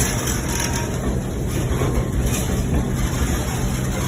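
Steady running rumble of a moving vehicle: a low hum with constant rolling noise over it, no pauses or distinct knocks.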